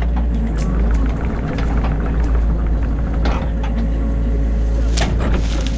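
Excavator's diesel engine running steadily, heard from inside the cab as a low rumble, with a few sharp knocks from the machine's working.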